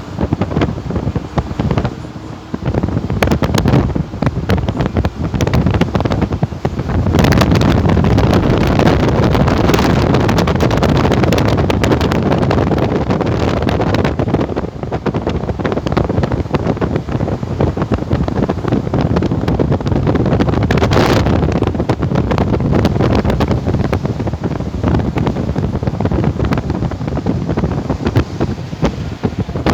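Strong wind buffeting the microphone in gusts, a loud rumbling rush that grows heavier about seven seconds in.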